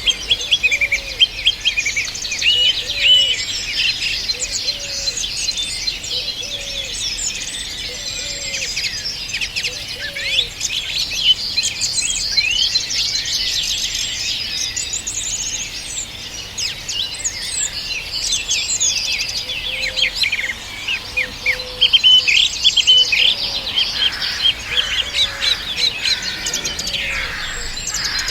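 A dense chorus of many songbirds chirping and trilling at once, with a low short call repeating about once a second underneath.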